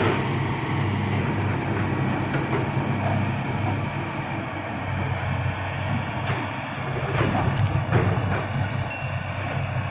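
Heavy construction machinery's diesel engine running steadily, with a few sharp knocks or clanks in the second half.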